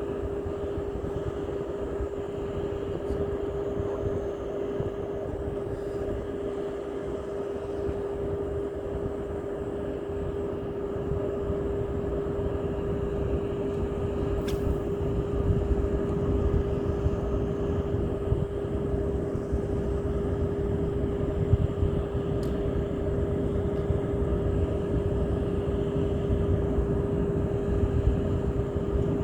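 A steady, even-pitched motor drone with a fluctuating low rumble underneath, growing slightly louder about halfway through.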